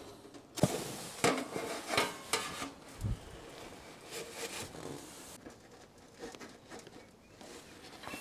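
Camp gear being handled: a run of sharp knocks, clinks and rubbing in the first few seconds, a dull thud about three seconds in, then quieter scattered handling sounds.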